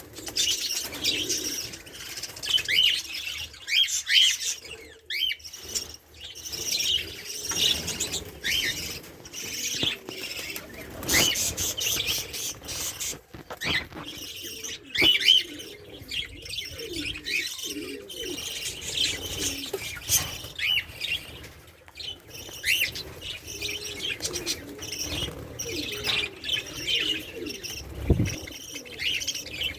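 A group of caged lovebirds chirping and chattering continuously, many short high-pitched chirps overlapping, with lower gliding calls joining in roughly midway.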